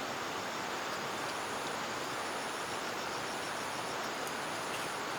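Insects trilling high and thin in stretches of about a second with short breaks, over a steady hiss of outdoor background noise.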